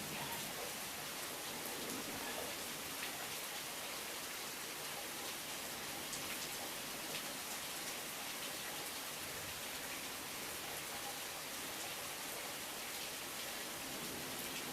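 Steady heavy rain pouring down: an even hiss dotted with many fine drop ticks.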